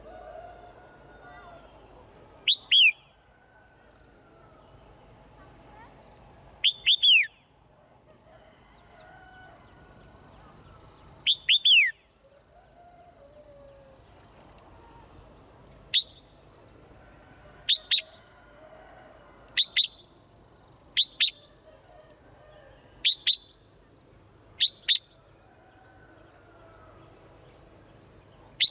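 Swallow calls: loud, sharp chirps that sweep downward, first in three quick clusters about four seconds apart, then as short single chirps roughly every two seconds. A faint steady high-pitched tone runs behind them.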